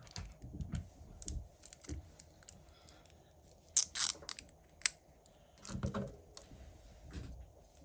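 Light clicks and taps of small hand tools working on an iPhone battery pack, with a louder crisp burst about four seconds in and a sharp click just after.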